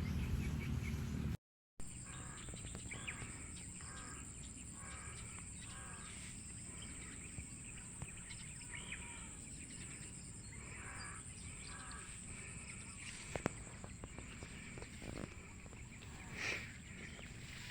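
Rural outdoor ambience: a bird gives a series of short repeated calls over a steady high-pitched hum and low background noise, with a single sharp click about two-thirds of the way through.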